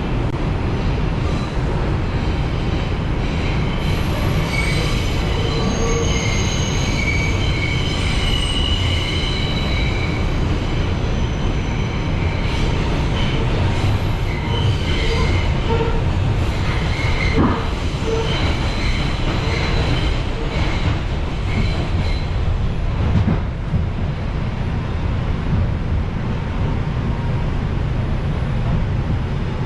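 R142 subway car running through the tunnel with a steady low rumble, its steel wheels squealing on the rails with high, wavering tones for much of the ride, fading out a few seconds before the end.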